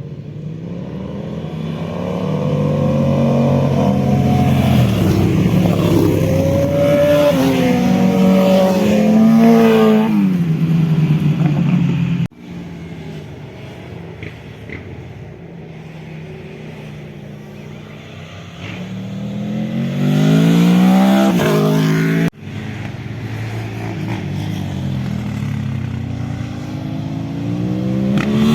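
Motorcycle engines revving hard and accelerating past, their pitch climbing and dropping through gear changes, in three separate passes that cut off suddenly about 12 and 22 seconds in.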